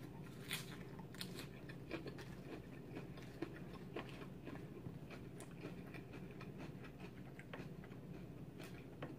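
Faint chewing and biting of a mouthful of salad, with soft crunches and many small scattered clicks.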